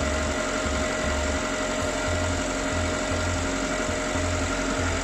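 Ravon R2's 1.2-litre B12D2 four-cylinder petrol engine idling steadily on its first run after an overhaul, still cold. It runs quietly and evenly, without misfires, its earlier extraneous noise gone.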